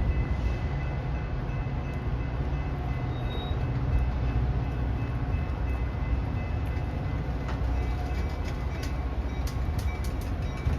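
Diesel-hauled commuter train at the station: a steady low rumble with a thin, steady high whine over it, and a few faint clicks near the end.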